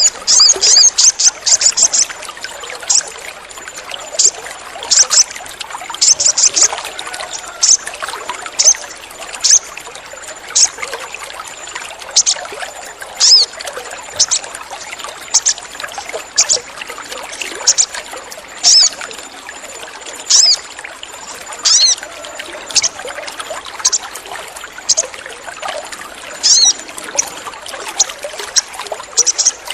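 Sogon bird calling: sharp, high chirps, sometimes single and sometimes in rapid bursts of several, every second or two, over a steady sound of trickling water.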